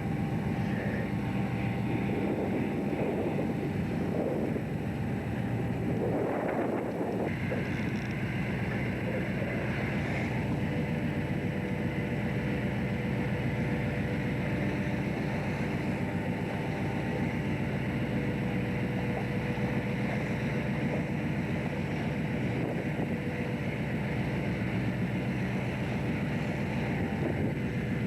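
A fishing boat's engine running with a steady, even drone. A short rush of noise comes about six seconds in.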